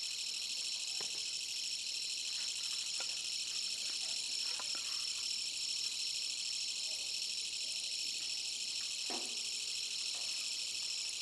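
A steady, dense chorus of insects with a fine pulsing texture, mostly high-pitched. There are a few faint clicks and a small knock about nine seconds in.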